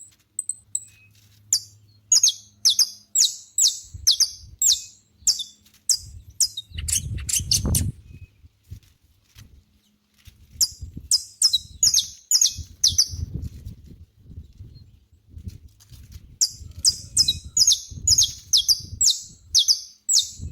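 Saffron finch (canário-da-terra) singing three phrases of sharp, repeated notes, each note slurring downward; the first phrase speeds up into a quick run at its end. A low rumble comes and goes underneath.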